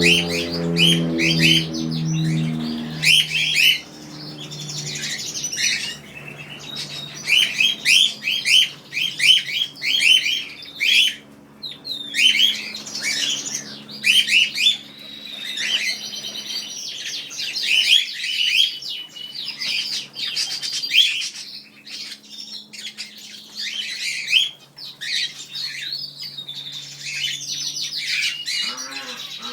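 Many small aviary birds chirping and trilling at once, with quick overlapping calls throughout. A low pulsing tone runs under them for the first few seconds.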